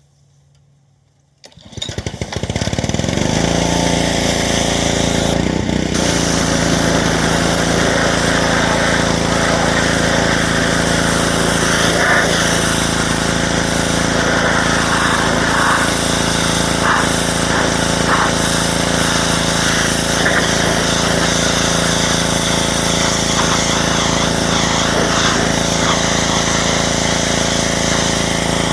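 Pressure washer starting up about a second and a half in, rising quickly to speed and then running steadily, with the hiss of its water jet spraying.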